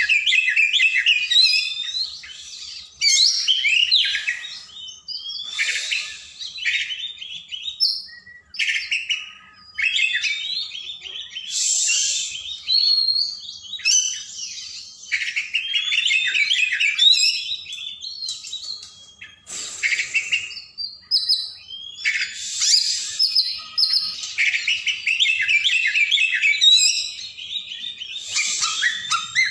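Oriental magpie-robin (kacer) singing continuously in rapid, varied phrases of whistles and chirps, broken by brief pauses.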